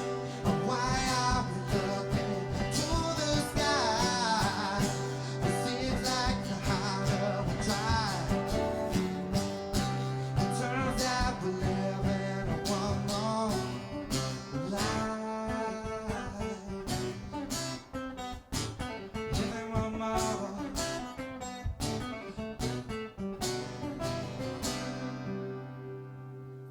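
Acoustic guitar playing the closing bars of a song in rapid strummed and plucked chords, with a wordless voice wavering over it in the first half. It ends on a last chord that rings out and fades over the final couple of seconds.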